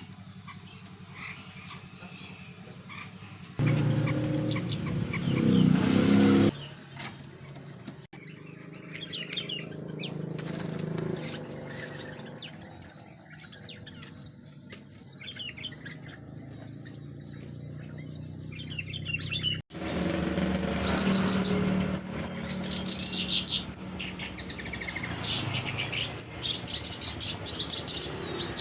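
Birds in cages fluttering their wings and chirping, in a few short joined sections; many short high chirps in the last third.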